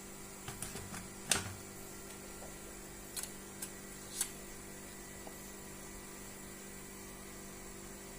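Steady electrical hum with a few light clicks and taps in the first half, the loudest about a second in.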